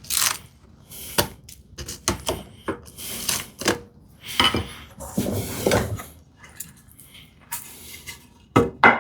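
Bevel-edge chisel working in a wooden mortise, scraping and levering out waste by hand, with irregular sharp knocks and clatter between longer scraping strokes.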